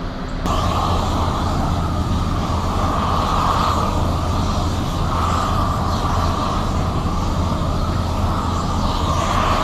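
Propane flamethrower torch burning with a loud, steady rush of flame, melting a tire path through the snow and ice on the road; it cuts in about half a second in.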